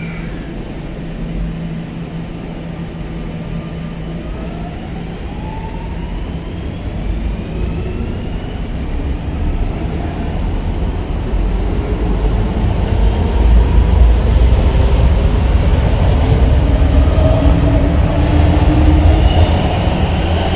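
Electric commuter train pulling away, its variable-frequency traction drive whining in several rising tones that climb one after another. Under the whine, a low rumble of the running train grows louder through the second half.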